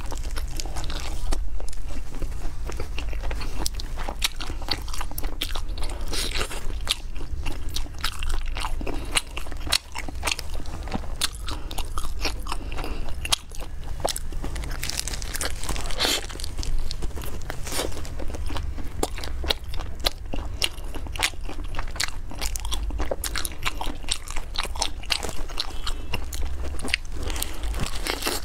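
Close-miked biting and chewing of spicy skewered food: a dense, continuous run of quick crunching clicks.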